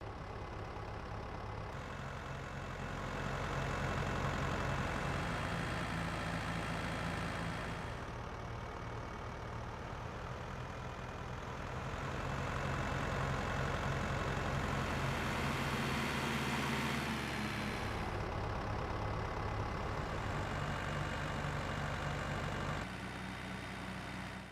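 An engine running steadily with a low hum. It grows louder and softer in stretches, changing abruptly several times.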